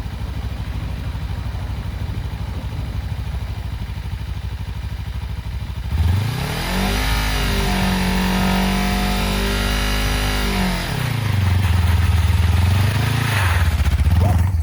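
Kawasaki Ninja 300 parallel-twin engine idling, then revved hard about six seconds in and held high for several seconds for a burnout attempt. It drops back, gives one shorter rev, and settles to idle.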